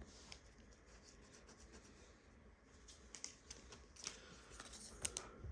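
Faint, light clicks and rustles of stiff Panini Prizm basketball cards being handled and slid one behind another as a pack is flipped through, the clicks coming more often in the second half.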